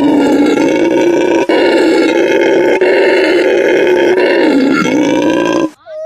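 A monkey giving one long, loud, drawn-out call, held for about five and a half seconds with only brief catches, then cutting off sharply near the end.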